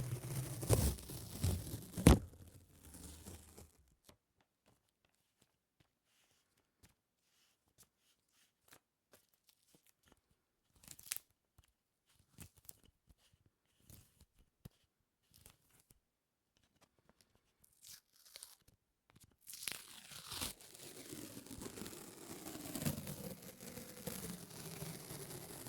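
Close-miked sticky peeling and crackling, like an adhesive surface being pulled apart, with a sharp snap about two seconds in. Then a long hush broken only by scattered small ticks, before the dense sticky crackling returns near the end.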